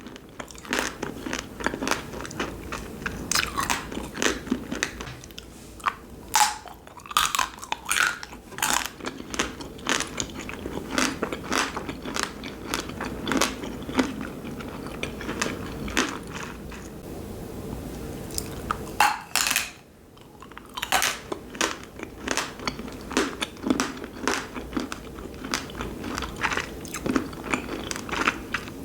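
Close-up crunching and chewing of frozen wax candy: a long run of sharp, crackly bites with chewing between them, easing off briefly past the middle.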